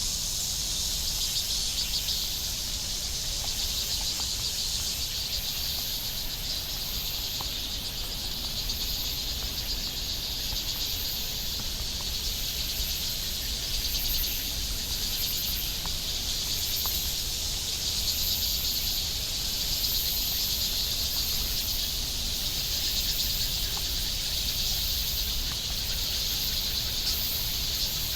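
Steady chorus of insects, shrill and continuous with a slowly pulsing high layer, over a low rumble.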